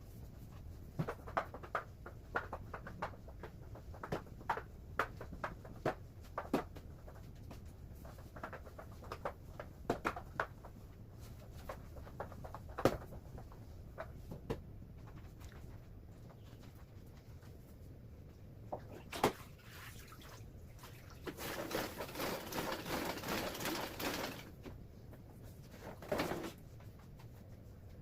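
Spin mop and bucket in use on a kitchen floor: scattered light knocks and clicks, then a few seconds of rushing noise about three-quarters of the way through.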